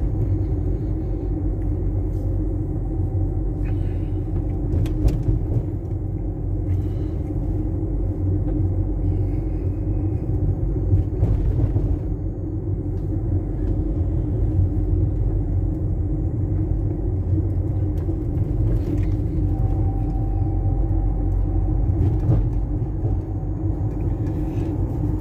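Fiat Fiorino 1.4 van driving, heard from inside the cab: a steady engine and road rumble.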